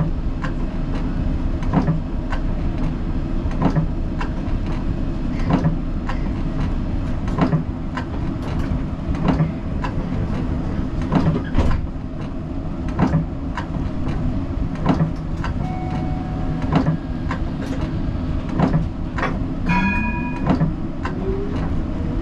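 Siemens Combino tram running, with a steady low rumble and a sharp click about once a second. Near the end a motor whine rises steadily in pitch as the tram picks up speed, and a brief tone sounds just before it.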